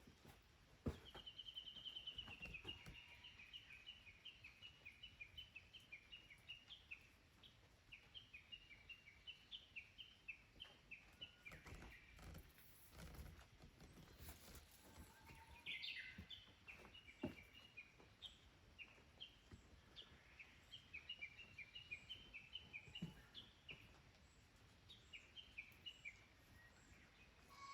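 A small wild bird singing long runs of quick, high chirping notes, two phrases with a short break in the middle, over faint outdoor background and a few soft knocks.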